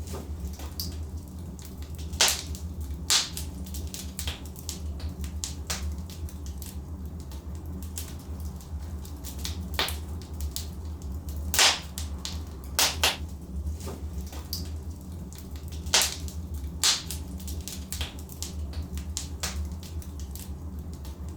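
Logs burning in a fireplace: a steady low rumble under irregular sharp crackles and pops, a louder pop every couple of seconds.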